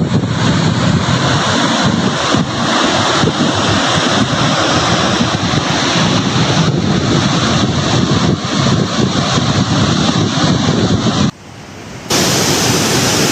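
Kuntala waterfall in heavy flood after rains upstream: a loud, steady rush of water pouring over rocks. It drops away for about a second near the end, then comes back.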